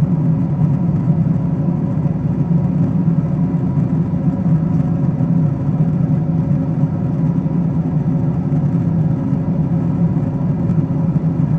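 Boeing 777-200ER cabin noise during the climb: a steady, loud drone of the engines and rushing air, deepest and strongest low down, with a faint steady hum above it.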